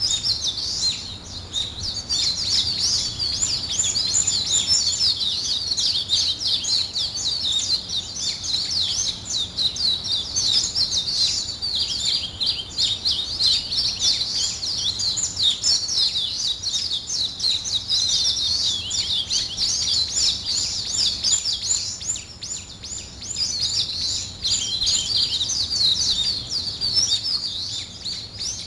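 A dense chorus of many small birds chirping, with rapid, high, overlapping chirps that barely pause, thinning briefly a little over two-thirds of the way through.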